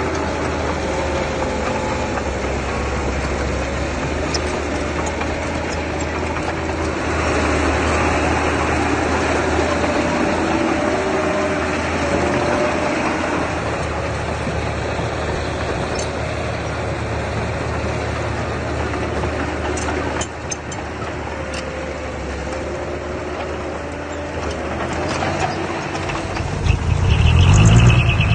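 Diesel engine of heavy earthmoving machinery running steadily, with a faint wavering whine over it. Near the end a louder, pulsing engine rumble comes in.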